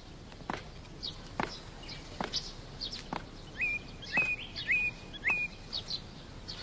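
Birds calling: quick downward-sweeping chirps repeated about once a second, with a run of four short rising whistles in the middle.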